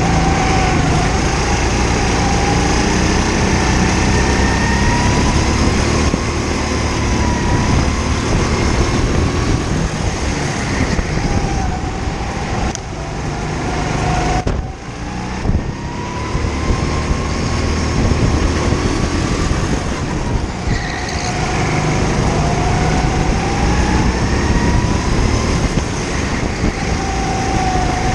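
Go-kart engine running hard on track, its pitch rising as it accelerates and falling back repeatedly. About halfway through it drops away briefly, then builds up again.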